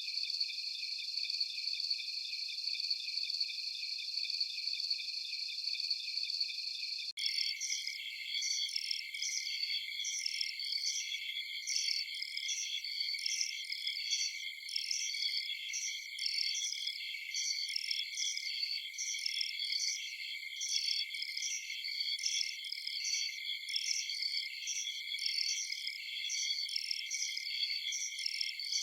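Dense chorus of crickets and other night insects, a steady high-pitched trilling with nothing low underneath. About seven seconds in, it switches abruptly to a different chorus with a regular pulsing chirp that reaches higher.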